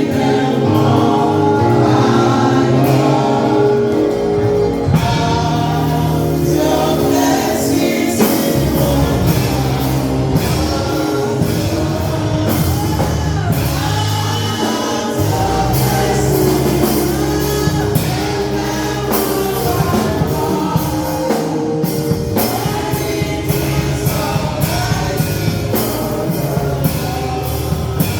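Gospel worship music: a choir or congregation singing over sustained chords and a bass line, with drum hits coming in toward the end.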